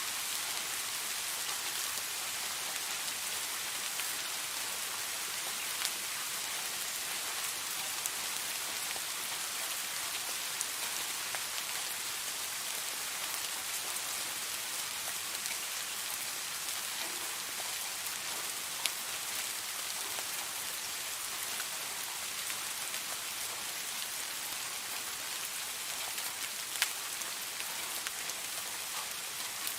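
Steady rain falling, an even hiss with scattered sharper drops ticking now and then, one louder drop near the end.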